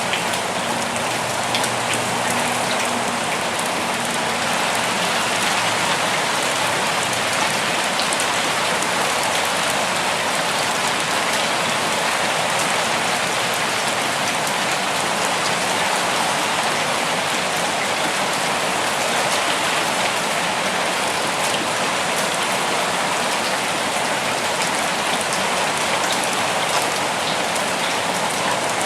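Steady rain falling, with the patter of individual drops over an even hiss.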